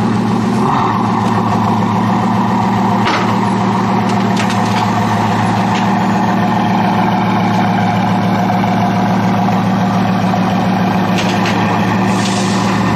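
Bugatti Veyron Super Sport's quad-turbocharged 8.0-litre W16 engine idling steadily.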